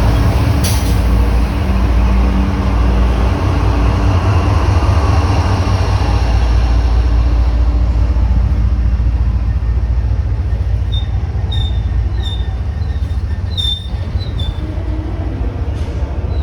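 Freight train rolling by: a loud, steady low diesel rumble, and in the second half short high wheel squeaks repeating about every two-thirds of a second.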